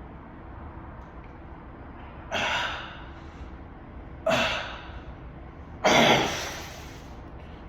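A person's hard, breathy gasps, three of them about two seconds apart, each fading out: out of breath from working out.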